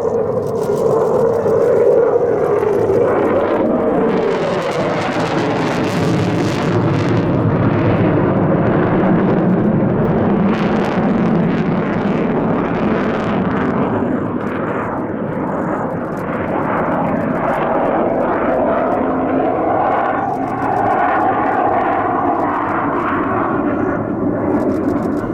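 Jet aircraft engines running loud and steady, with the pitch sliding slowly down early on and rising again near the end.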